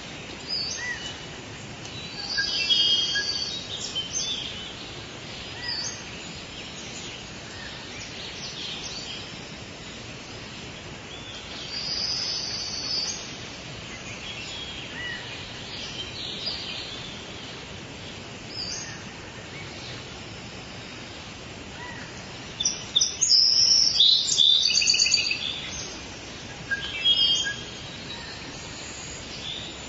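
Forest ambience: several birds chirping and calling over a steady background hiss, in scattered bursts with the busiest flurry of calls about three quarters of the way through.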